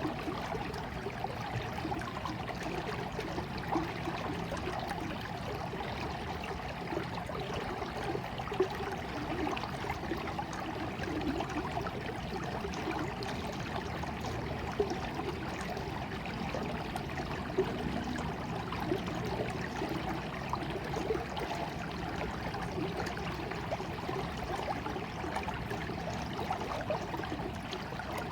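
Water running steadily over stones in a stream, with a continuous babbling and gurgling made of many small splashes and an occasional louder splash.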